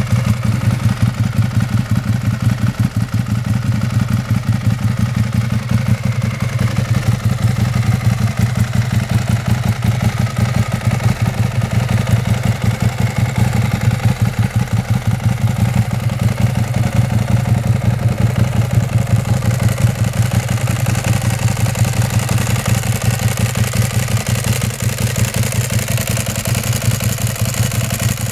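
Ducati 1098's 90-degree V-twin engine idling steadily through a Termignoni exhaust with dual carbon-fibre cans, with an even, low pulsing beat and no revving.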